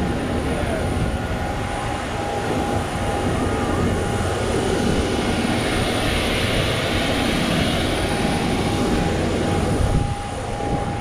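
Steady machine noise of a parked Boeing 737-800 after landing: a continuous rushing hum with a thin steady whine running through it. The hiss swells a little about halfway through and dips briefly near the end.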